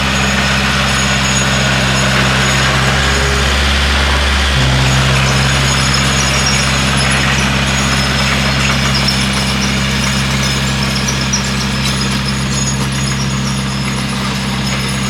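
Bulldozer's diesel engine running steadily, its note shifting briefly about three to four and a half seconds in as the load changes, with a thin high squeal above it.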